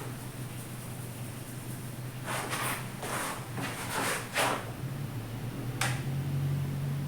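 Hands working over the hair and scalp during a head massage: four short rustling strokes between about two and four and a half seconds in, then a sharp click near six seconds, over a steady low hum.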